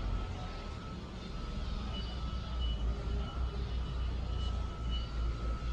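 Low, uneven rumbling noise with a faint steady high tone over it, and a thin higher tone that comes and goes in the middle.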